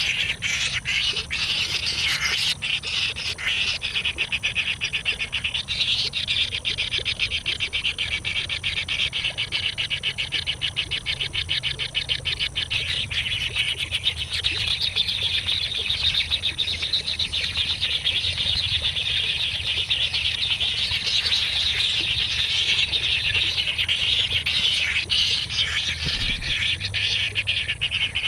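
A dense, high-pitched chorus of rapid chirring and chirping from small animals, continuous throughout.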